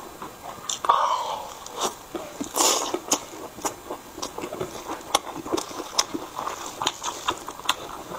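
Close-miked chewing of a mouthful of grilled sausage and kimchi, with many short wet mouth clicks and smacks. There are a couple of louder noisy bites or slurps, about a second in and about two and a half seconds in.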